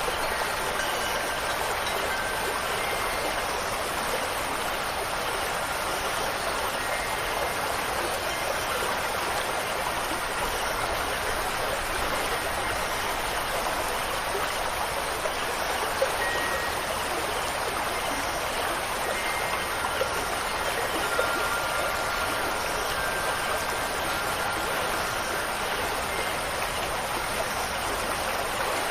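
Steady rush of running water from a stream, with a few faint, brief high tones here and there.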